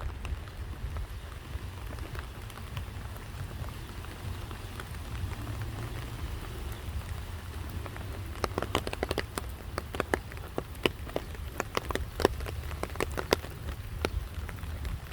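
Rain falling, with single drops striking close by as sharp, irregular ticks that grow frequent about halfway through, over a low steady rumble.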